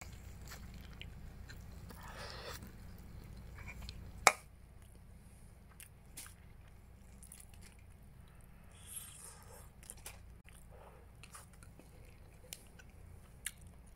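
A person chewing and biting a mouthful of chicken-and-rice kabsa, eaten by hand close to the microphone, with small wet mouth clicks. A single sharp click about four seconds in.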